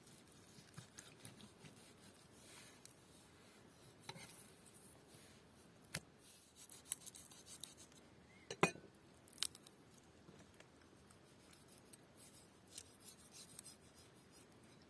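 Faint scattered clicks and light taps of hand work with kitchen utensils and food, with one sharper knock about halfway through.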